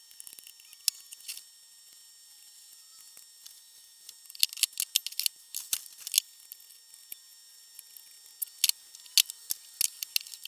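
Irregular sharp clicks and light taps, bunched together about four to six seconds in and again near the end, over a faint steady hiss.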